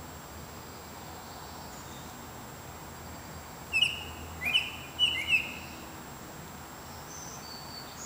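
A songbird singing one short phrase of four clear whistled notes, each sliding down in pitch, about four seconds in, over steady background hiss. A couple of faint, thin high notes follow near the end.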